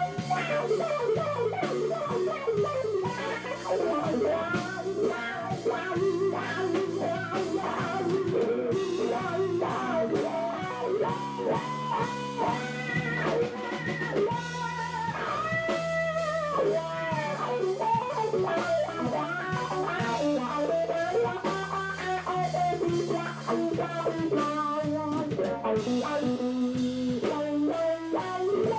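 Live blues-rock instrumental: an electric guitar plays a lead line full of bent notes over bass guitar and a drum kit.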